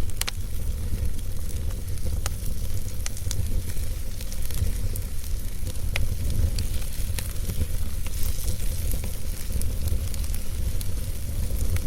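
Wood fire burning in a fireplace: a steady low rumble with scattered sharp crackles and pops from the burning logs, one every second or so.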